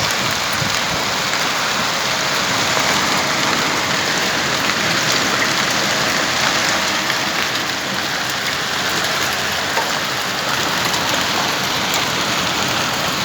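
Heavy rain mixed with hail falling steadily on surfaces, an even downpour with a few scattered sharper ticks from hailstones.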